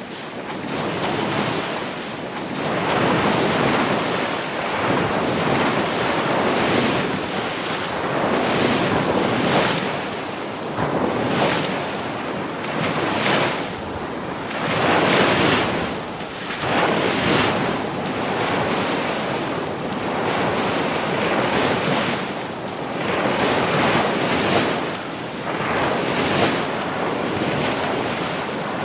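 Ocean surf, waves breaking and washing in a steady hiss that swells and eases every couple of seconds. It fades in from silence at the start.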